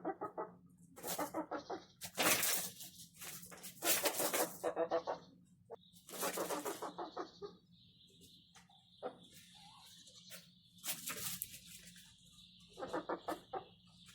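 Chickens clucking in repeated short runs of calls. A steady, thin high-pitched buzz joins in from about halfway through.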